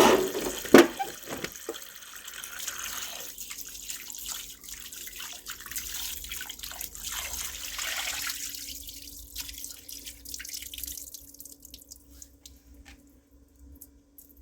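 Water splashing, dwindling to separate drips that slow and stop about twelve seconds in.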